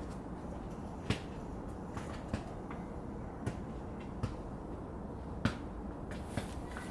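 Park playground ambience: a steady background hiss broken by sharp clicks and knocks about once a second, with no voices.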